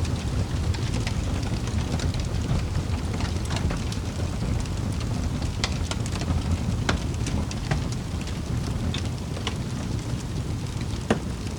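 Wood fire burning in a fireplace: a steady low rumble of flames with irregular sharp crackles and pops, the loudest pop near the end.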